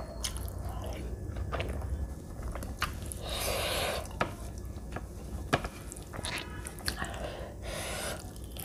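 Close-miked chewing and mouth noises of eating rice mixed with dal and mashed potato by hand, with several sharp clicks of the lips and mouth.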